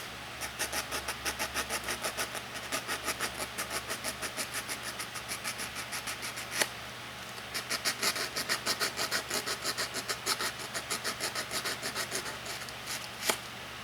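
Rhythmic back-and-forth rubbing strokes, about three a second, cleaning the arc marks off a starter solenoid's contact. The strokes pause with a single click about six seconds in, then resume.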